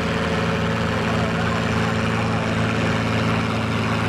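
Farm tractor engine running steadily, with an unchanging pitch and level.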